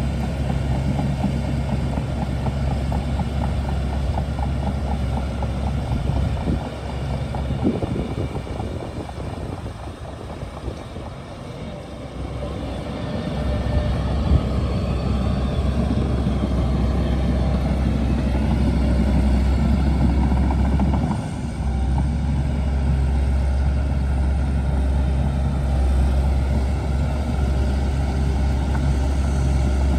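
Shantui DH17C2 bulldozer's diesel engine running steadily. It eases off for several seconds about a third of the way in, then builds back up, with another brief dip about two-thirds through.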